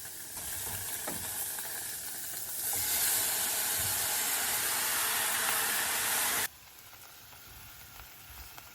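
Cut tomato and browned tofu sizzling in hot oil, the sizzle swelling louder a few seconds in. Past the middle it drops suddenly to a faint sizzle.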